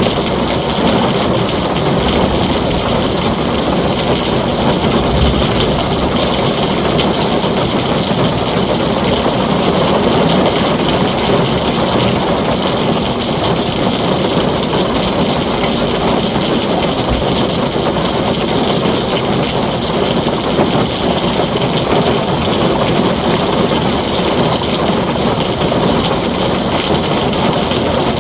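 Heavy rain falling steadily on a tin roof: a dense, even hiss with a constant low rumble beneath it.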